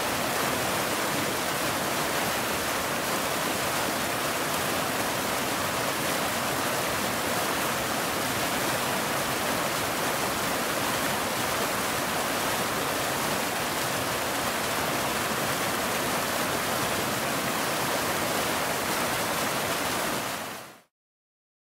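Steady rushing of a waterfall, an even wash of falling water with no other sound, which fades quickly to silence near the end.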